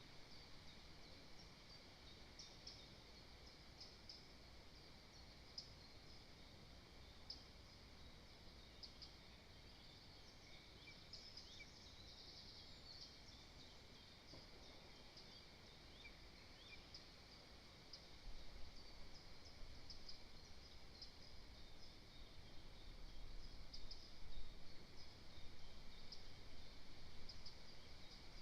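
Faint outdoor forest ambience with many short, high bird chirps scattered throughout. A low rumble comes in about two-thirds of the way through.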